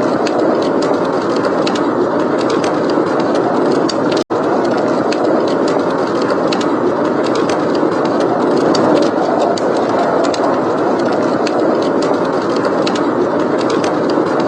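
Blizzard wind blowing steadily, with a wood fire crackling in many small sharp pops over it. The sound cuts out for an instant about four seconds in.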